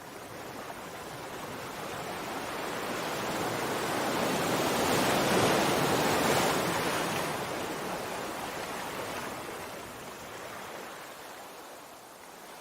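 Sea waves: one slow swell of surf that builds for about five seconds, peaks near the middle and washes back out.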